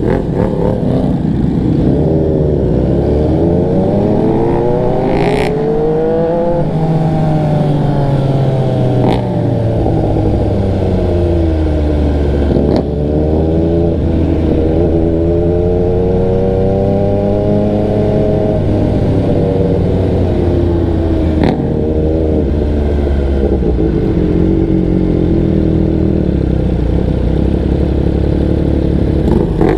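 MV Agusta sportbike engine under way, its pitch climbing as it accelerates and dropping back at each shift or when it slows, over and over. A few short, sharp clicks cut in along the way.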